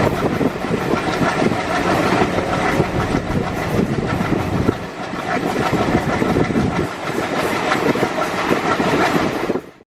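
An Indian Railways train running past, its wheels clattering over the rail joints in a dense run of clicks and rumble. It cuts off abruptly near the end.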